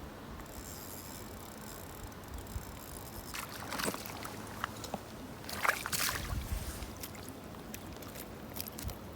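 Water splashing in two short bursts, about three and a half and six seconds in, over a steady background hiss.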